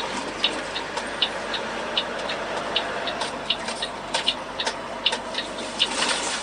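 Quick, uneven ticking, about three clicks a second, over a steady hiss.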